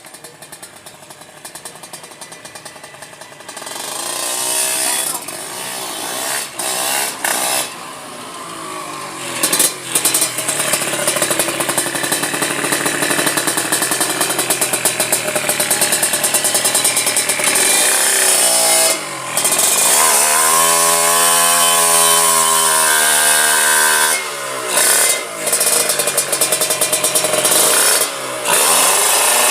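Yamaha Jupiter motorcycle engine, a single-cylinder four-stroke built up for drag racing with full compression, being revved hard: it rises from a faint start to a loud, buzzing run, drops and climbs back up in pitch about two-thirds of the way through, and cuts off briefly a few times near the end as the throttle is blipped.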